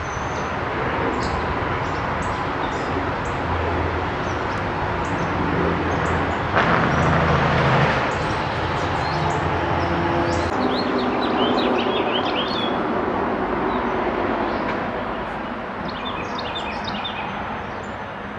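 Small birds chirping in short high notes over a steady rumble of background noise, with a low engine-like hum through the first half and a louder rush of noise for a second or so near the middle.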